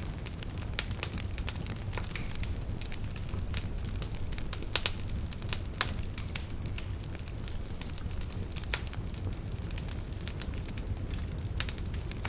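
Campfire burning steadily, with a low rumble of flame under irregular crackling and sharp pops of burning wood, a few pops louder than the rest.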